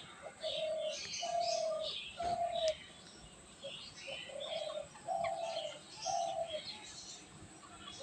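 Several birds calling together: a run of short, low, slightly falling notes about once a second, with quick high chirps over them.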